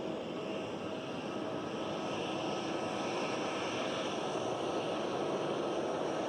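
Jet airliner engines running, a steady rush of noise with a faint whine, slowly growing a little louder.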